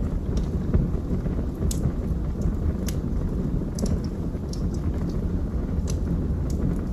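Wood fire burning in a fireplace: a steady low rumble of flame with scattered sharp crackles and pops from the burning wood, about one or two a second.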